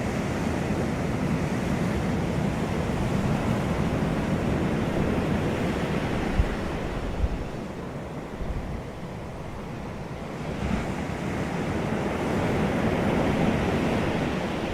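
Wind rushing steadily, with a couple of low thumps of gusts hitting the microphone near the middle. It eases off, then swells again toward the end.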